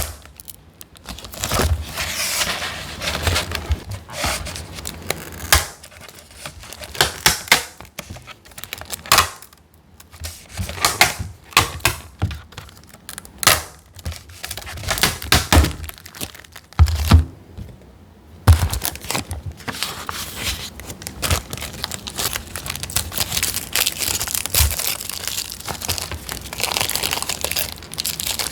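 Crinkling and tearing of plastic being handled and peeled during resin crafting, with several sharp knocks along the way. The crackling grows denser and more continuous in the last third.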